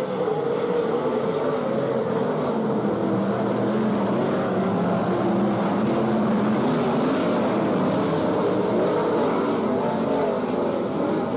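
Several sprint car V8 engines running together on a dirt oval during a race, their pitches rising and falling against each other as the cars go around.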